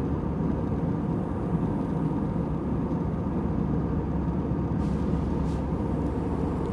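Airliner cabin noise in flight: a steady, low, even rushing hum of the engines and airflow, with no change.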